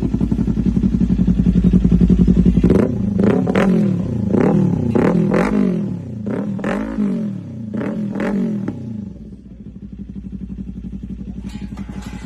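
Modified motorcycle engine idling, then revved in a quick series of throttle blips for about six seconds, each rise and fall in pitch topped by a sharp crack, before settling back to a quieter idle.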